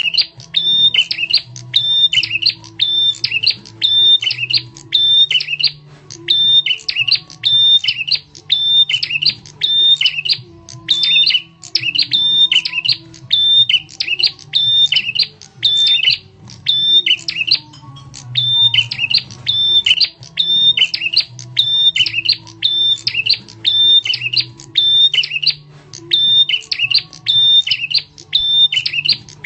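Prenjak tamu call used as a bird lure: loud, sharp, rapidly repeated chirps in runs of about two seconds with brief breaks between them, over a faint low hum.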